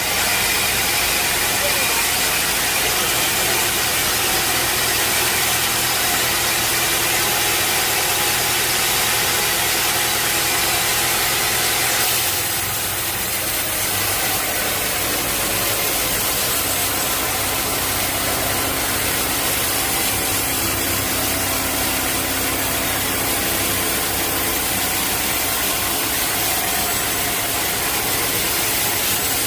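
Sawmill machinery running steadily, a continuous hiss over a low hum, with the hiss easing a little about twelve seconds in.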